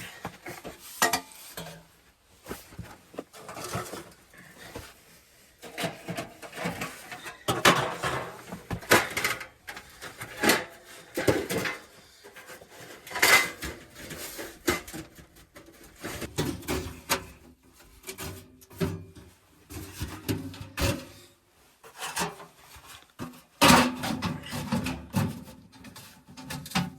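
Irregular metallic clinks, knocks and clatter of a small heater being handled and set up, parts bumping against each other.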